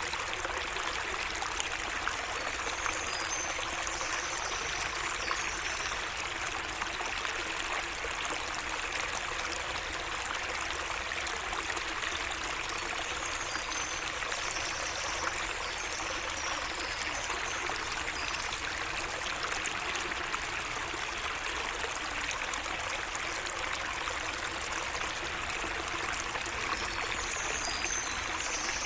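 Water of a small garden waterway flowing and trickling steadily, with faint high bird chirps about three seconds in, around the middle and near the end.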